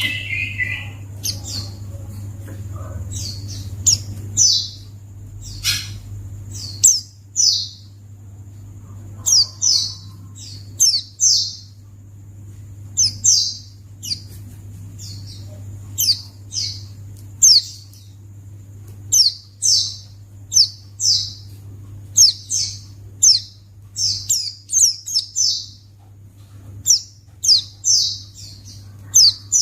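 White-eye (pleci) calls: short, high chirps repeated over and over, often in quick runs of two to four, over a steady low hum.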